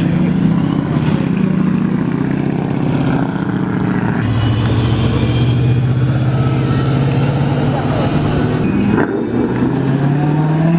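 Car engine running at low revs, a steady low note; about four seconds in the note drops lower and steadies, and just after nine seconds it shifts again.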